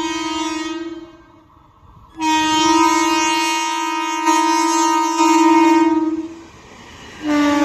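Indian Railways locomotive air horn sounding in long, steady blasts. One blast ends about a second in, a longer one runs from about two seconds in until after six seconds, and another starts near the end at a slightly lower pitch.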